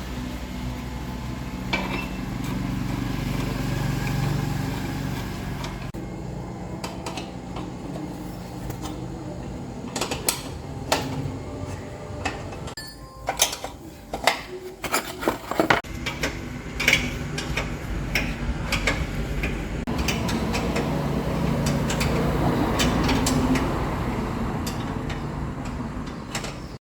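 Truck engine running steadily after a battery disconnect switch replacement, with a run of sharp metallic clinks and knocks, like tools on metal, in the middle.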